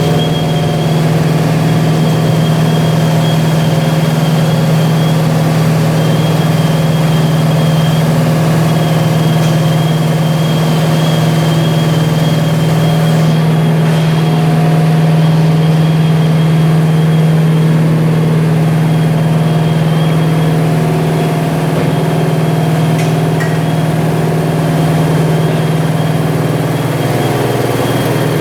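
Vibrating-discharge vortex washing machine running: a loud, steady mechanical hum, with a faint high whine that drops out and comes back several times.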